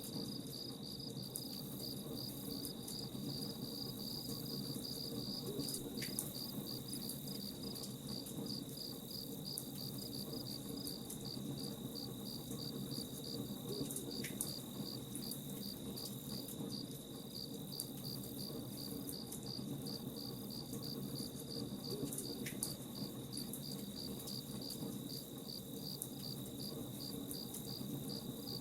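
Crickets chirping in a fast, even, unbroken pulse over a low steady hiss, with three faint sharp pops about eight seconds apart.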